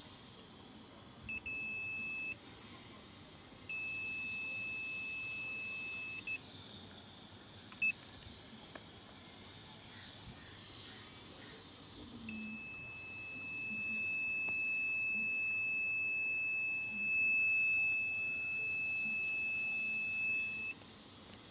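Multimeter continuity buzzer giving a steady, high-pitched beep in several separate spells: a short beep about a second in, a longer one of a couple of seconds, a brief blip, then a long beep of about eight seconds from the middle on. The beep signals continuity: the probes are reading a short to ground on the line running to the shorted HDMI IC.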